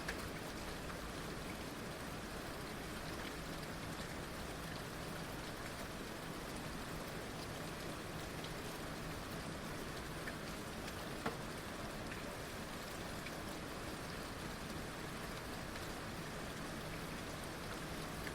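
Heavy rain falling steadily: an even, continuous hiss with scattered individual drops tapping, one sharper tap a little past the middle.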